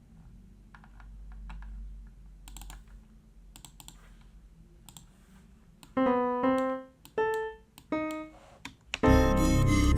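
Computer keyboard and mouse clicks, then from about six seconds in a few single software-synth keyboard notes played one at a time. Near the end a full chord sounds, one that sounds a bit too happy.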